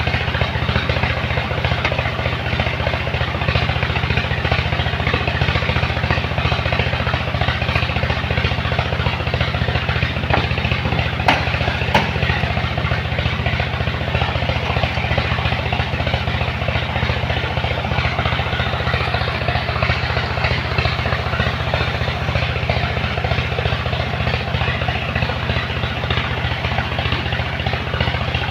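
Truck engine running steadily with a fast, even low throb that does not change.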